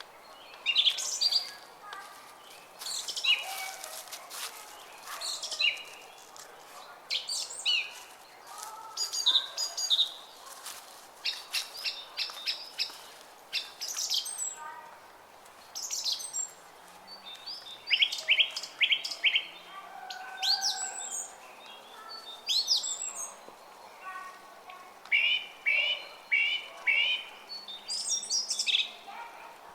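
Several songbirds chirping and singing throughout, with quick runs of four to six short high notes, over a faint steady rush of water from a stream.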